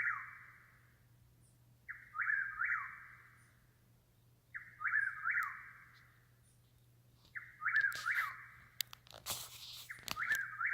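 A bird singing through the night, repeating the same short whistled phrase about every two and a half seconds. A brief burst of noise comes about nine seconds in.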